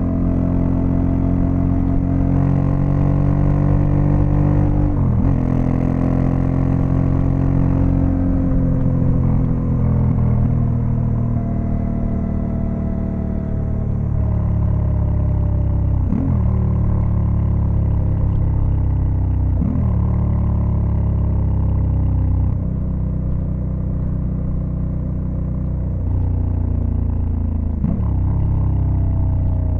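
Honda Africa Twin CRF1100L's 1084 cc parallel-twin engine pulling the bike along at road speed. The engine note dips and jumps briefly about five times as the rider changes gear, and it falls slowly in pitch for a few seconds in the middle.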